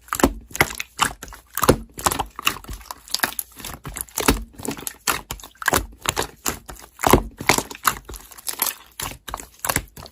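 Slime being squished and worked by hand, giving a dense, irregular run of sticky clicks and crackles.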